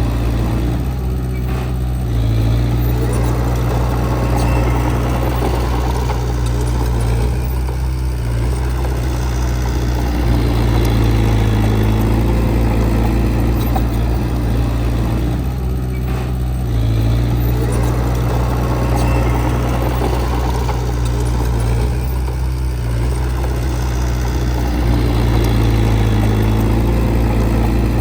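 Heavy diesel engine of earthmoving machinery running steadily, its sound changing in a pattern that repeats about every 15 seconds.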